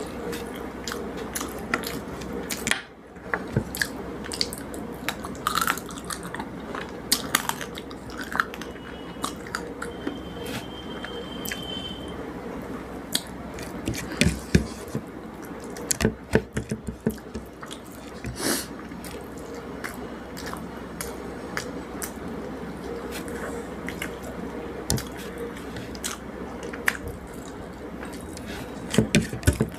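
Close-up eating sounds: a person chewing and mixing rice with fish curry by hand, with many short wet smacks and clicks, thickest in the middle stretch and again near the end.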